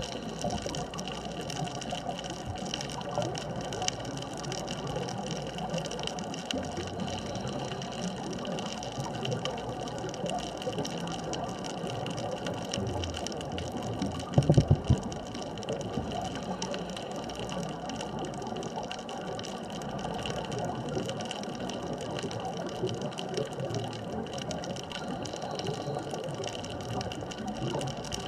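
Underwater ambience at a deep wreck reef: a steady watery hiss with a faint mechanical hum, broken about halfway through by a short burst of several low thumps.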